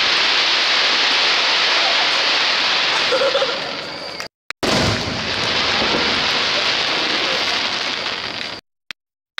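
Aerial firework shells bursting, followed by a long crackling hiss in two stretches of about four seconds each. Each stretch cuts off abruptly into silence.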